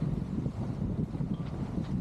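Wind buffeting the microphone aboard a sailing yacht: an irregular, fluttering low rumble with a faint hiss above it.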